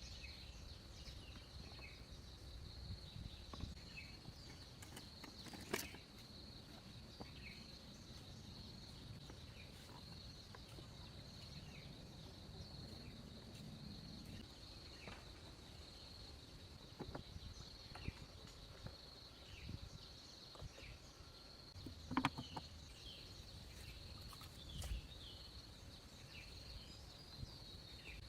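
Forest ambience: a steady high-pitched insect drone, with scattered short bird chirps. A few sharp knocks are heard, the loudest about six and twenty-two seconds in.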